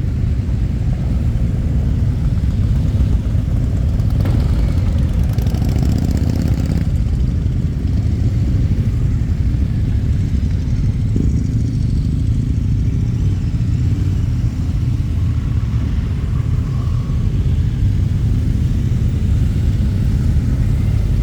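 Motorcycle engines running at idle, a steady low rumble, with a brief rushing noise about four seconds in that lasts a couple of seconds.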